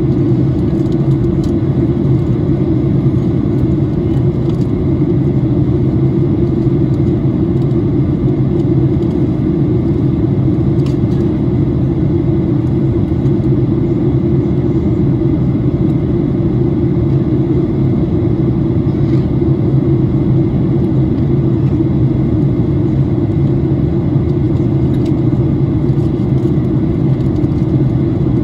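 Boeing 737-800 cabin noise in flight: the steady drone of its CFM56-7B turbofan engines and the airflow over the fuselage, heard from a passenger seat, with a deep hum under an even rush and no change in pitch or level.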